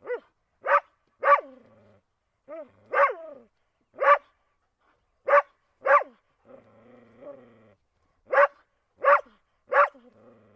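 Dog barking: about eleven short, sharp barks in irregular groups of one to three, with a quieter drawn-out low growl between barks a little past the middle.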